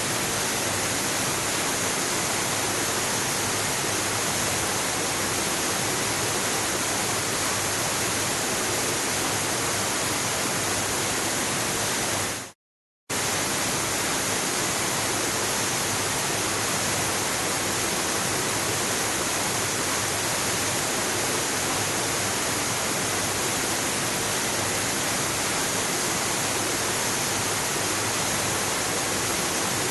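Waterfall: a steady, even rush of falling water, which cuts out completely for about half a second a little before the middle and then resumes unchanged.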